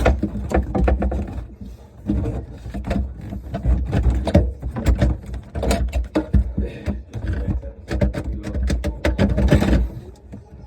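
Dishwasher parts being handled and fitted into place: an irregular run of knocks, clicks and rattles over a low rumble.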